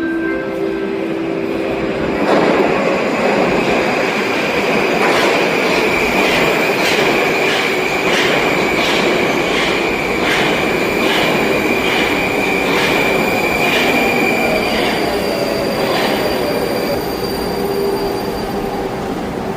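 Moscow metro train running through the station, its wheels squealing in a steady high tone. Its wheels clack regularly over the rail joints, about twice a second. The sound grows louder about two seconds in.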